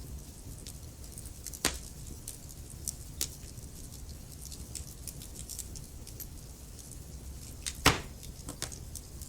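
Wood fire crackling in a fireplace: a low steady rumble of flames with scattered sharp pops of burning wood, one loud pop about a second and a half in and the loudest near the end.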